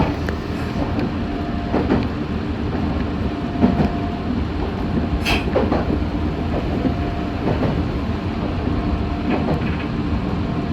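Meitetsu 6500 series electric train running on the rails, heard from inside the car: a steady rumble with scattered wheel knocks over rail joints, and a brief hiss about five seconds in.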